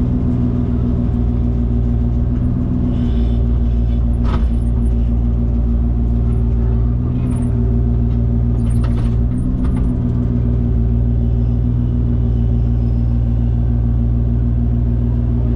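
An engine running steadily at one speed, with a couple of faint knocks about four and nine seconds in.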